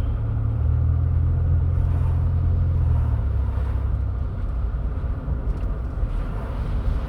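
Low rumble of engine and road noise heard from inside a moving car, heavier for about the first three seconds and then easing off.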